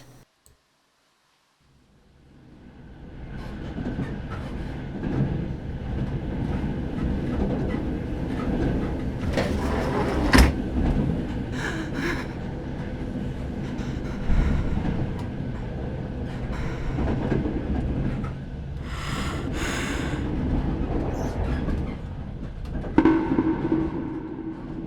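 Train running on rails: a steady rumble with clatter that fades in after about two seconds of silence, with a few brief louder noises along the way.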